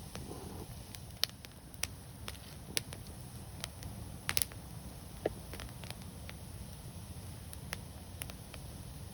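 Wood fire burning with a steady low rumble and hiss, and scattered sharp crackles and pops, about eight of them, two in quick succession near the middle.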